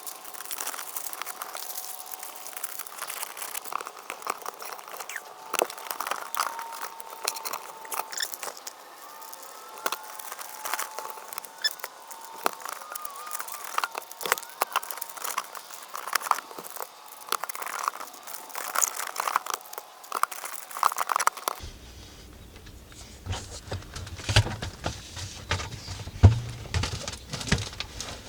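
Reflective foil flashing tape being peeled off and pressed onto the seams of a solar tube: irregular crinkling and crackling with many small clicks.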